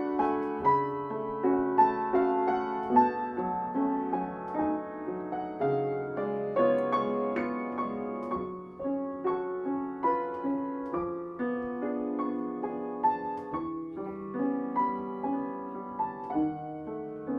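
Soft piano music, notes and chords played at a gentle, unhurried pace as a film score.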